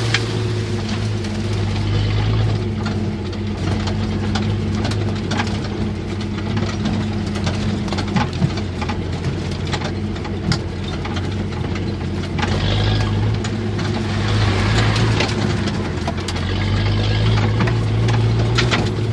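1977 Jeep CJ5's engine running steadily at an even speed, with scattered light clicks and knocks over it.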